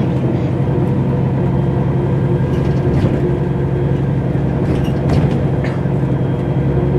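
Mercedes-Benz O405 N² city bus's diesel engine running steadily, heard from inside toward the rear, with a few short rattles about three and five seconds in.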